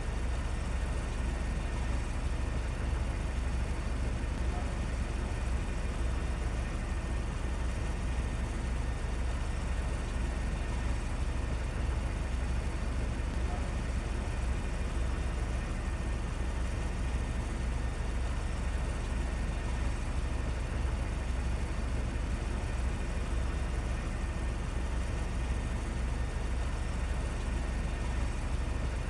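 Steady low rumble with an even hiss over it, unchanging throughout: outdoor background noise of a city street.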